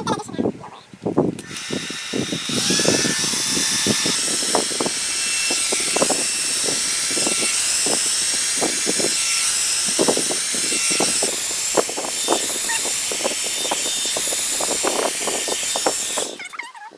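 A 2-in-1 hot-air brush (blow-dry hair dryer and styling iron) switched on and blowing with a steady airy hiss, switched off near the end. Scattered short knocks sound under it.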